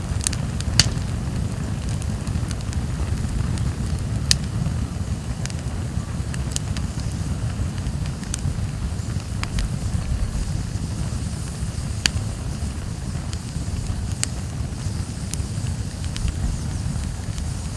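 Wood campfire burning: a steady low rush with scattered sharp crackles and pops, about one every second or two. The strongest pops come about a second in, about four seconds in and about twelve seconds in.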